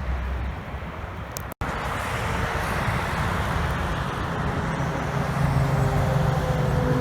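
Road traffic with a heavy vehicle's engine passing, its engine note strengthening and rising in pitch toward the end. The sound cuts out briefly about a second and a half in.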